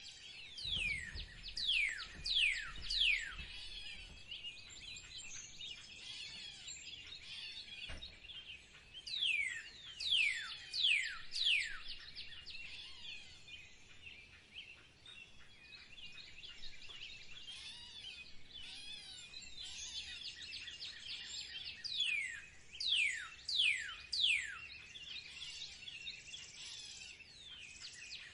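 Birds singing: one bird repeats a phrase of three or four loud, steeply falling whistles, about three times, over a steady background of many birds chirping.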